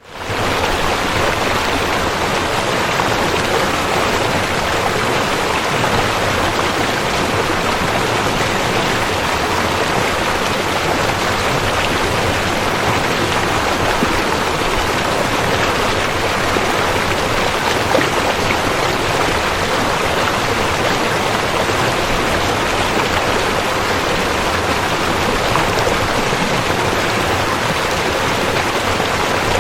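Steady rushing of river water flowing over rocks, an even, unbroken noise.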